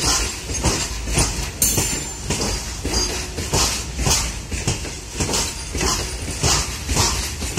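Loaded open-top freight wagons rolling past: their steel wheels clatter over the rail joints in a regular clickety-clack, about two knocks a second over a steady rumble, with a brief high squeal about one and a half seconds in.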